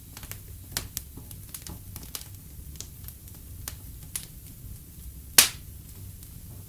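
Fireplace fire crackling, with scattered sharp pops and one loud pop about five and a half seconds in, over a low steady rumble.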